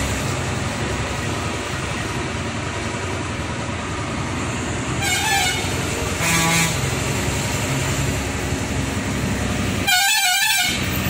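Steady truck engine and road noise, with a vehicle horn sounding three times: two short honks about five and six seconds in, and a louder, warbling honk near the end.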